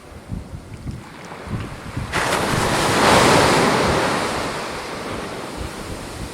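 A sea wave breaking on the shore about two seconds in, its rushing wash swelling and then slowly fading away. Gusts of wind rumble on the microphone.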